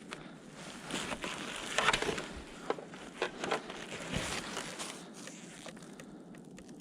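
Footsteps crunching and crackling on dry forest litter, leaves and twigs, in irregular steps, loudest about two seconds in and dying down near the end.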